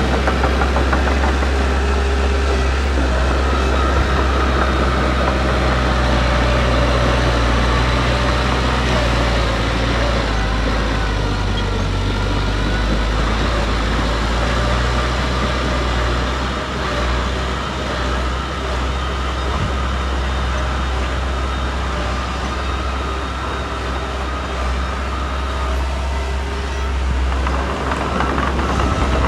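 Heavy diesel earthmoving machinery running with a steady low rumble, easing a little past the middle and picking up again near the end.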